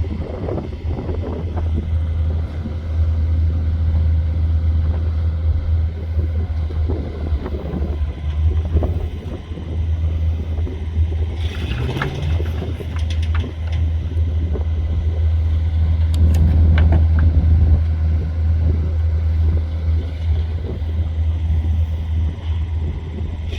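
An engine running steadily with a deep, low rumble, with a few sharp cracks or knocks partway through.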